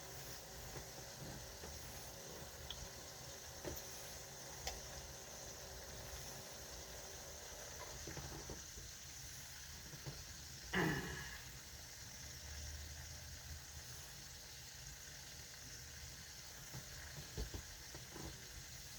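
Faint, steady sizzling of food cooking on a stove, with a few soft ticks. About eleven seconds in, a brief pitched sound falls steeply in pitch.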